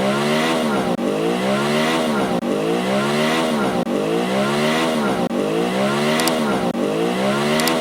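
Police car siren wailing, its pitch rising and falling in a steady cycle about every second and a half.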